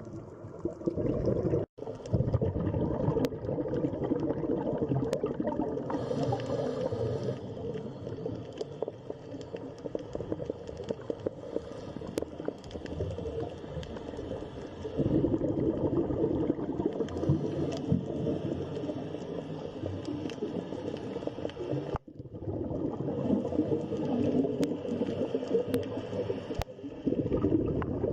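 Underwater ambience: a dense, continuous gurgling, bubbling water noise. It cuts out abruptly twice, once about two seconds in and again about three-quarters of the way through.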